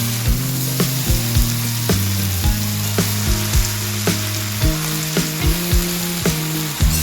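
Food sizzling in a hot pan, under background music with a steady beat and a shifting bass line.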